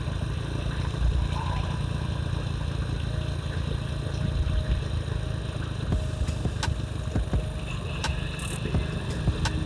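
Motorcycle running on the move, a steady low rumble, with several sharp clicks or knocks in the second half.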